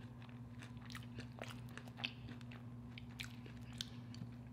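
Close-miked mouth sounds of a person chewing a cheesecake bite with lips closed: faint, scattered soft clicks and smacks over a steady low hum.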